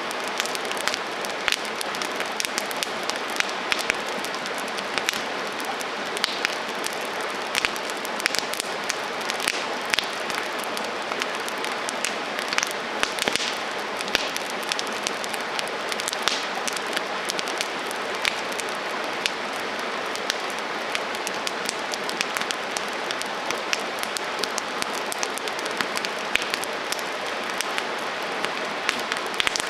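Wood campfire burning, a steady hiss with frequent irregular crackles and pops from the burning wood.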